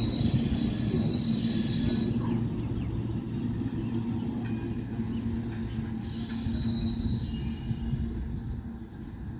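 Electric local train (EMU) running past and away on a curve: a steady low hum of wheels and motors with high-pitched wheel squeal near the start and again about two-thirds of the way through, slowly fading.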